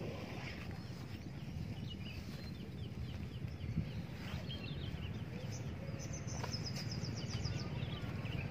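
Small birds chirping in short repeated calls, with a rapid high trill about six seconds in, over a steady low rumble.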